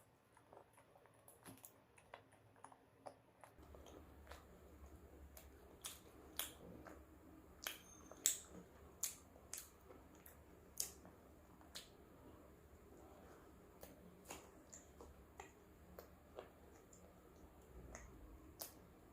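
Close-up eating sounds: chewing with irregular sharp mouth clicks and smacks, about one every half second to second. A faint low hum comes in a few seconds in.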